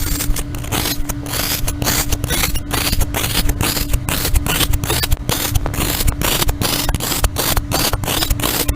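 Quick, regular scraping strokes, about four a second, over a steady machine hum.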